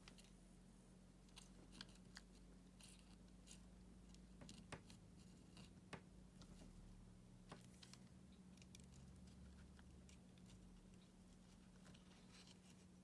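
Near silence: a steady low hum with scattered faint clicks and taps.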